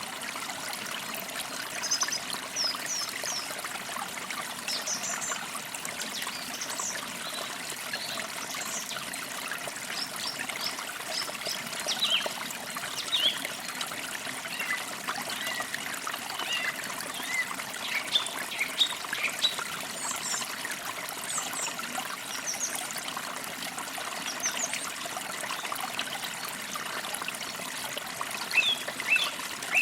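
A forest creek trickling and babbling steadily over stones, with small birds chirping in short, high calls scattered throughout and a burst of chirps near the end.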